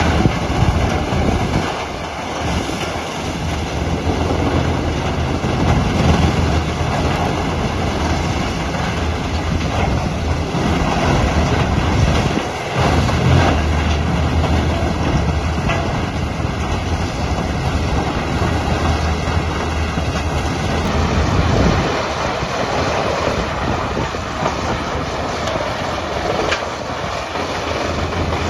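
Crawler tub grinder running, an engine's steady low hum under a loud, continuous grinding and clattering as wood is broken up. The noise changes character abruptly about two thirds of the way through.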